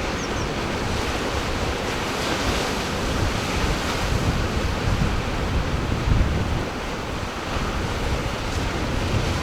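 Ocean surf breaking and washing in a steady hiss, with wind gusting against the microphone in low rumbles.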